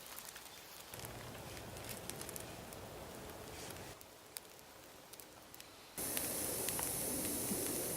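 Small fire of bamboo shavings burning, a hissing rush scattered with sharp crackles. It gets abruptly much louder about six seconds in.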